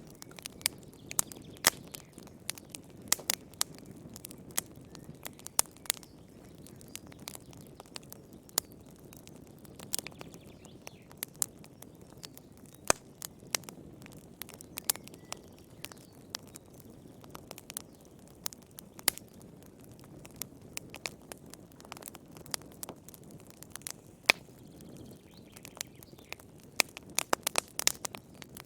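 Wood fire burning in a fireplace, crackling with irregular sharp pops over a soft low rumble of flame, the pops coming thick and fast near the end.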